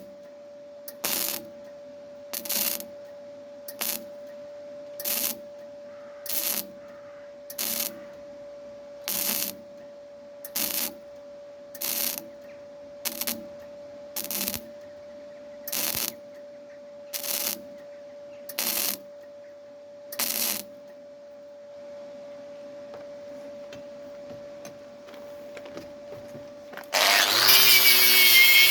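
MIG welder stitch-welding repair metal in short bursts, about one every second and a half, with a steady hum behind. The bursts stop about 20 seconds in, and near the end a power tool starts up loudly.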